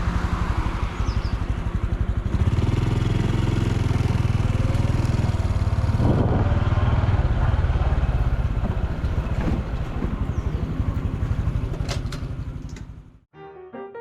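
Honda Super Cub C125's single-cylinder four-stroke engine and exhaust running as the bike rides along, getting louder about two seconds in. Near the end the engine sound fades out and piano music begins.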